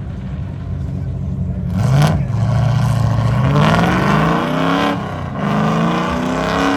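Drift car's engine revving hard, its pitch climbing for a couple of seconds, falling back about 5 seconds in, then climbing again; a short sharp burst of noise about 2 seconds in.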